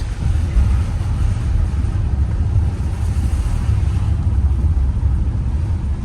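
A vehicle driving, with a steady, loud low rumble of engine and tyres heard from inside the cabin.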